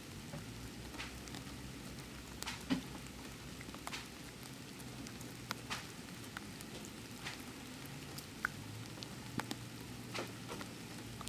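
Rain falling, with scattered single drops ticking sharply on a nearby surface, over a faint steady low hum.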